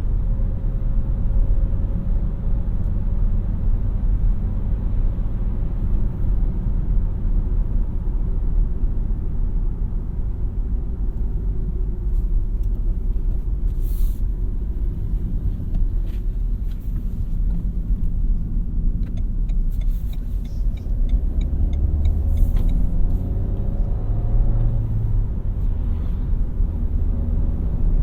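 Renault Mégane TCe 100's 1.2-litre four-cylinder petrol engine and road noise while driving, a steady low rumble. In the second half the engine note rises a few times as the car accelerates.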